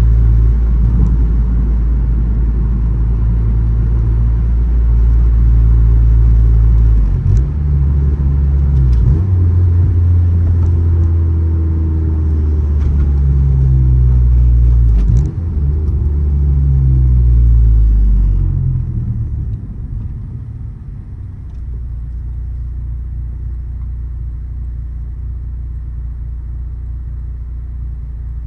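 Honda Civic Si running, a steady low engine drone whose pitch rises and falls several times, then drops to a quieter steady drone about two-thirds of the way in.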